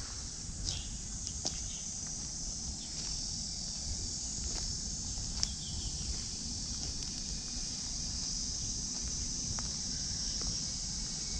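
Steady high-pitched insect chorus, with a low rumble beneath and a few scattered clicks.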